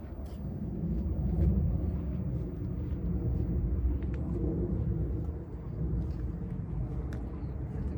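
Low, uneven outdoor rumble on the microphone with faint scattered clicks, as of someone walking a trail.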